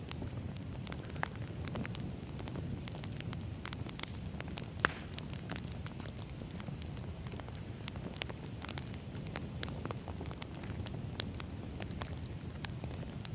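Burning firewood crackling, with scattered pops over a steady low rumble and one sharp, loud pop about five seconds in.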